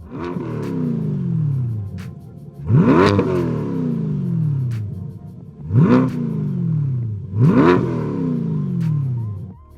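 Chevrolet C8 Corvette's 6.2-litre V8 revved four times through its exhaust, each blip rising sharply and falling back slowly toward idle.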